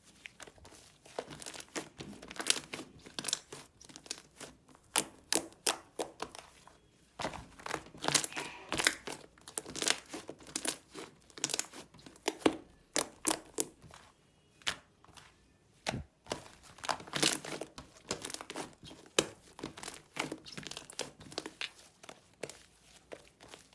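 Cream slime being squished and stretched by hand, giving irregular sticky pops and crackling clicks, with a short lull about two-thirds of the way through.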